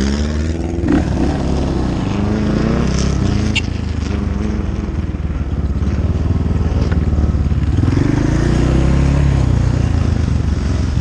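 Dirt bike engine running as the bike rides along, its pitch rising and falling with the throttle.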